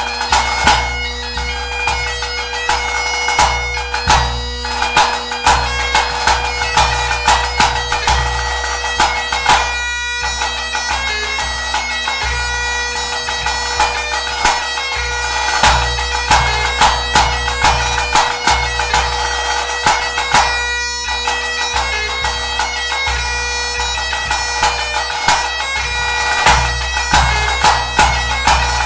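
Great Highland bagpipe playing a tune over its steady drones, with a pipe band bass drum beating a regular pulse underneath, about two to three strokes a second. The sound cuts out briefly twice.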